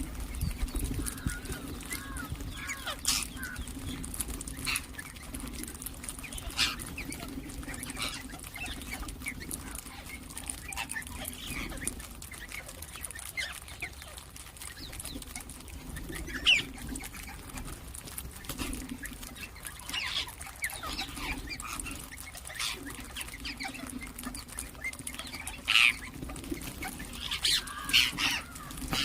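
Ringneck parakeets chirping and giving short sharp calls at irregular intervals, with a few louder squawks near the middle and towards the end, over a steady low hum.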